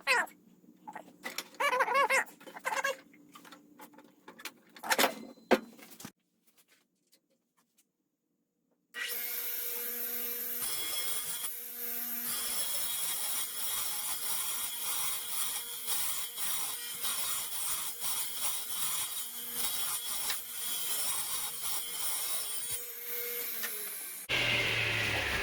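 Squeaky rubbing and knocks as the wood is handled, then a radial arm saw starting abruptly and running steadily for about fifteen seconds as it cuts a dado pass in wood. Near the end it is switched off and winds down with a falling whine.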